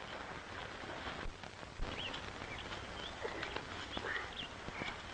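Birds chirping in short, quick calls from about two seconds in, over a steady hiss, with a few faint knocks.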